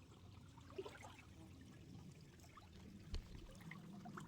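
Faint creek water trickling, close to silence, with a single soft thump about three seconds in.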